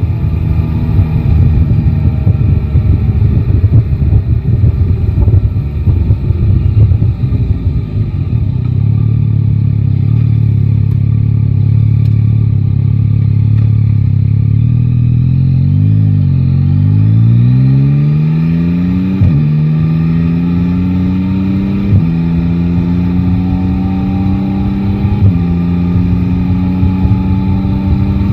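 Yamaha Tracer 9 GT's three-cylinder engine heard from the rider's seat: a rough rumble at first, then a steady note. About halfway through the revs dip and then climb, and the bike pulls away through the gears, pitch rising in each gear and dropping sharply at each of three or four upshifts.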